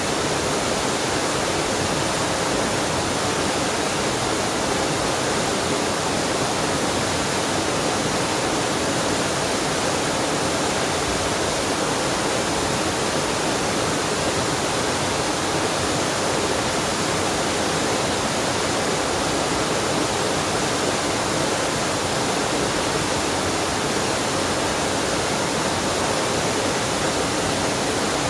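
Waterfall and mountain stream water rushing in a steady, unbroken wash of sound.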